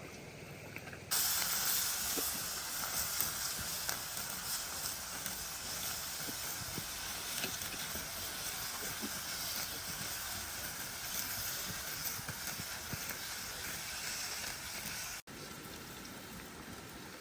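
Food sizzling in a hot pan, starting suddenly about a second in as if something has just gone into the hot fat. Near the end it cuts abruptly to a quieter, steady hiss.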